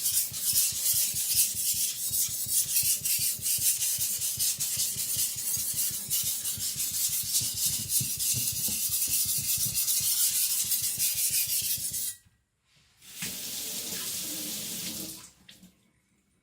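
Steel cleaver blade being rubbed back and forth on a wet whetstone in quick, steady strokes, blending the thinned bevel. The strokes stop suddenly about twelve seconds in, and a shorter burst of a different noise follows.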